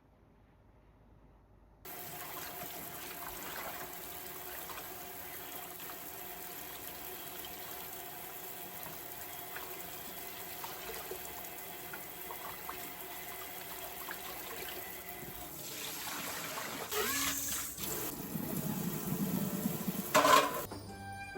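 Water running steadily, switching on abruptly about two seconds in after near silence. It grows louder and more uneven near the end, with a sharp knock just before it stops.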